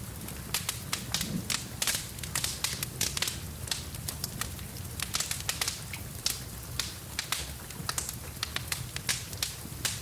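Wood fire crackling in a fireplace, with many sharp pops and snaps several times a second over a steady low rumble, mixed with a steady rain hiss.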